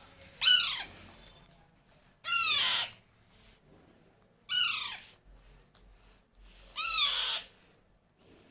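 Baby Alexandrine parakeet calling: four loud, harsh squawks about two seconds apart, each falling in pitch.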